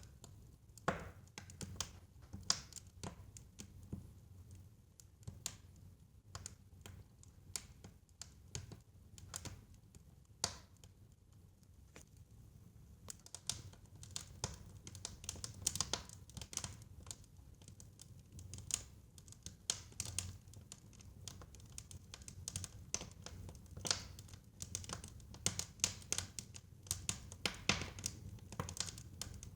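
Fire in a fireplace crackling, with irregular sharp pops and snaps over a low steady rumble. The crackles come more often from about halfway through.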